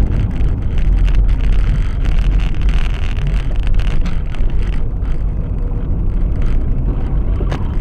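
A car driving, its road and wind noise picked up as a heavy, steady low rumble by a dashcam microphone, with a single sharp knock near the end.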